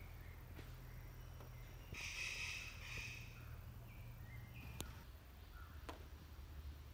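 Outdoor ambience with a low steady hum, broken about two seconds in by a bird's rough call, heard twice in quick succession, followed by a couple of faint clicks.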